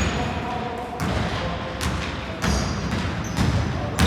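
Basketball bouncing and thudding on the floor of an indoor sports hall, about one hit a second, echoing in the large room.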